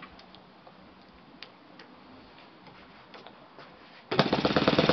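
Faint scattered clicks, then about four seconds in a Kalt FC-1 four-stroke glow model engine starts by hand and runs with a fast, even firing beat.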